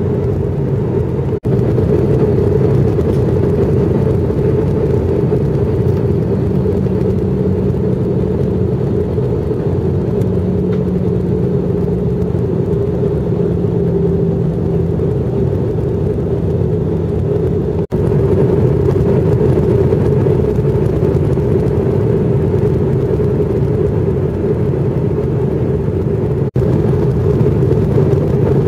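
Steady airliner cabin noise on approach: a loud, even rumble of jet engines and airflow, with a faint steady tone in the middle stretch. The sound cuts out for an instant three times.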